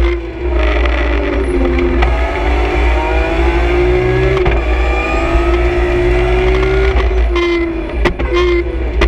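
Heard from inside the cabin, a BMW M3 E46 CSL rally car's straight-six engine runs at full throttle. Its pitch climbs and drops at the gear changes. A few sharp cracks come near the end.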